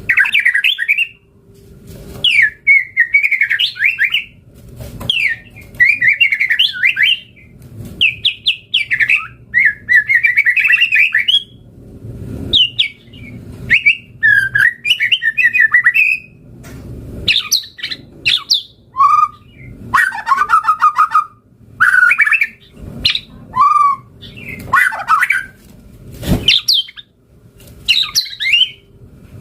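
White-rumped shama (murai batu) singing loud, varied song phrases of fast rising and falling whistled notes, in bursts of a second or two with short pauses between.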